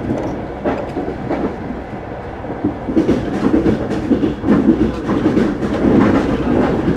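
Passenger train running along the track, heard inside the carriage: a steady rolling rumble with scattered wheel clicks over the rail joints, growing louder about three seconds in.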